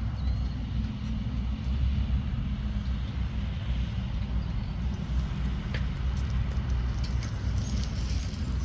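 Steady low rumble of a bicycle being ridden: tyres rolling on pavement and wind buffeting the microphone, with a few faint clicks.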